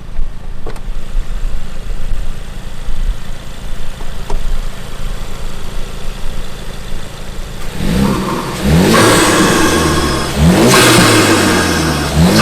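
Ford Focus RS Mk3's turbocharged 2.3-litre four-cylinder through a Bull-X Ego-X aftermarket exhaust. It makes a low, uneven rumble at low revs. About eight seconds in it goes to hard acceleration, the revs rising and dropping back at three quick gear changes.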